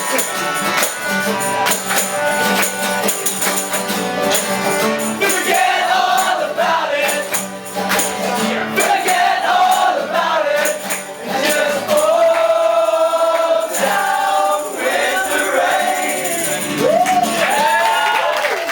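Live band music: a singer's voice over a full band with steady rhythmic percussion.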